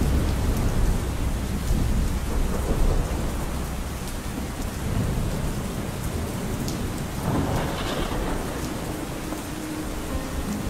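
Steady rain with rolling thunder: a deep rumble that fades away over the first few seconds, over an even hiss of rain with scattered drop ticks.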